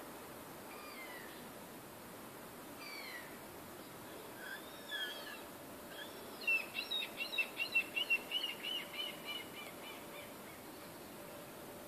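Birds calling: a few short down-slurred call notes, then a fast chattering run of about four notes a second lasting some three seconds, over a faint steady hum.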